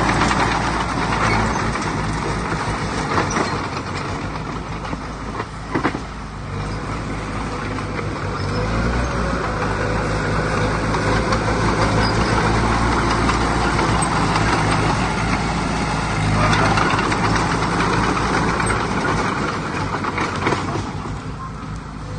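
Heavy diesel earthmoving machinery running, the engine drone swelling and easing as it works, with a couple of sharp knocks about six seconds in.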